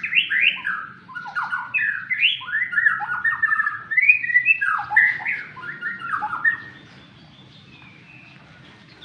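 White-rumped shama singing a fast, varied song of quick rising and falling whistled notes, which stops about two-thirds of the way through.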